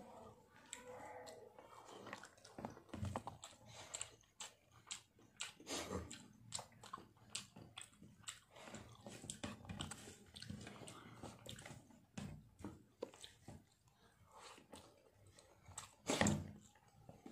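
A person chewing a mouthful of rice and fried fish, with many small clicking mouth sounds throughout and a louder burst about a second before the end.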